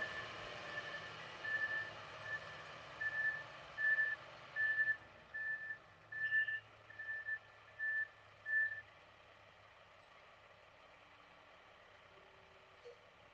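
A vehicle's reversing alarm beeping on one high pitch, about a dozen beeps of uneven length, over a running engine. The engine fades about halfway through, and the beeping stops about two-thirds of the way through.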